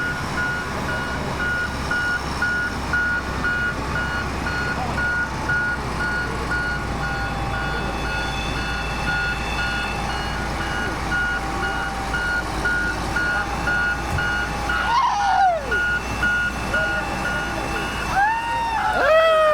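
A wheel loader's reversing alarm beeping steadily at a regular rate over its running diesel engine, the beeps stopping about three-quarters of the way through. Voices call out near the end.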